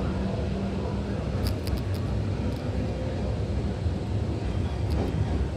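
Hankyu Takarazuka Line electric train running between stations: a steady low rumble of wheels and running gear, with a few sharp clicks about a second and a half in and again near the end.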